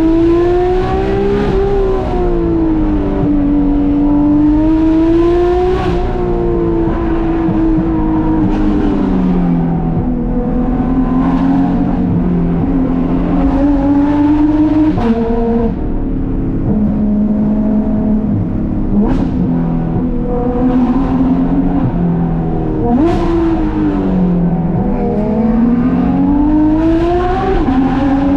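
Porsche 991.2 GT3 RS's naturally aspirated 4.0-litre flat-six, with Dundon street headers and Crack Pipe exhaust, pulling hard on the throttle and easing off, its pitch rising and falling over a few seconds at a time. It changes gear sharply a couple of times, once near the middle and again about two-thirds through.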